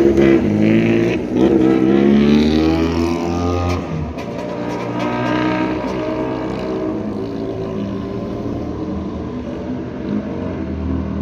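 Motorcycle with a modified exhaust accelerating, its engine note climbing over the first few seconds, then dropping back to a lower, quieter, steady running note.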